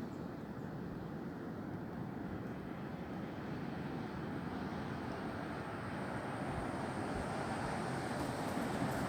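Wind blowing through tree branches, a steady rushing that grows gradually louder.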